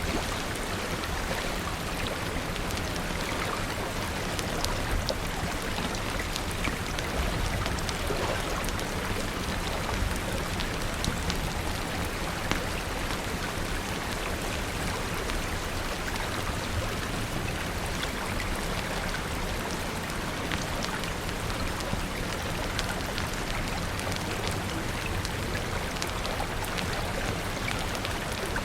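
Steady rain, an even wash of water noise with many small sharp ticks scattered through it.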